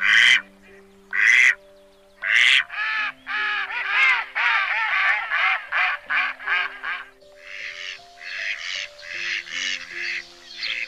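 Duck quacking: three loud single quacks about a second apart, then a fast run of quacks and chatter. Calm background music with sustained notes plays underneath.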